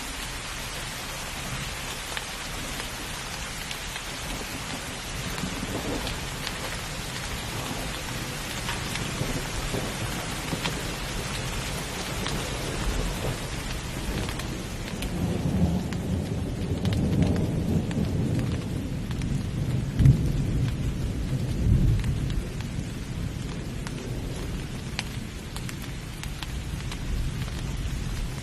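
Steady heavy rain with rolling thunder: the thunder builds about halfway through into a deep rumble with a couple of sharp cracks, then fades back under the rain.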